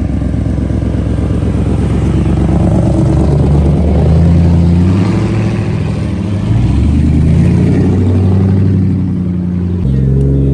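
A car engine close by, first running with a low pulsing rumble, then revved up and held at several engine speeds in turn.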